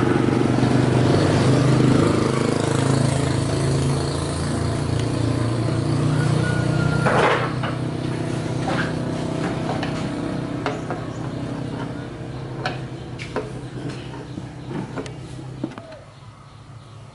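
An engine running steadily, then gradually fading away over about sixteen seconds, with scattered clicks and light knocks in the second half.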